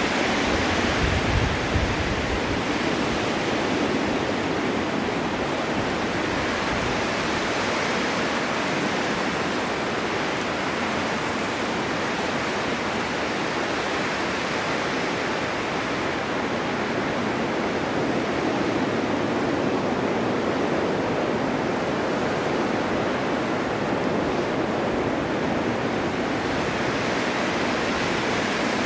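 Snowstorm wind blowing steadily, a continuous rushing noise that slowly swells and eases, with a brief low rumble about a second in.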